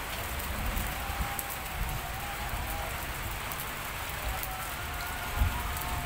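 Steady patter of light rain, with a single dull thump about five and a half seconds in.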